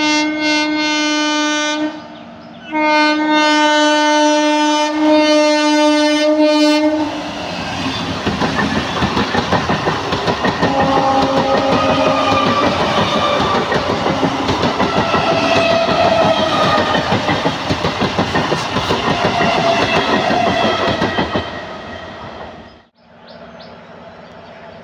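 Two loud multi-tone train horn blasts, a short one and then one of about four seconds, followed by an Indian Railways EMU local train passing close by, its wheels clattering rhythmically over the rail joints for about fifteen seconds. The clatter fades and the sound drops away suddenly near the end.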